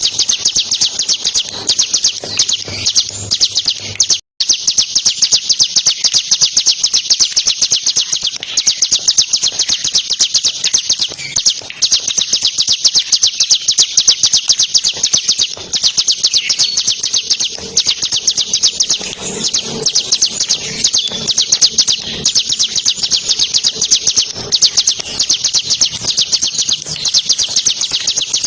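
Bar-winged prinia (ciblek) singing a continuous, very fast stream of high notes, the rattling 'ngebren' song, broken once by a brief gap about four seconds in.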